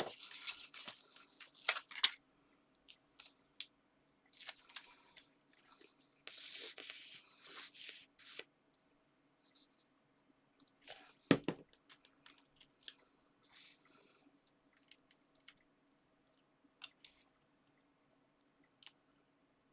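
Paper and card being handled and pressed together as a cut-out topper is stuck onto a handmade card: scattered rustles, crinkles and small taps, with one sharp tap about eleven seconds in. A faint steady hum runs underneath.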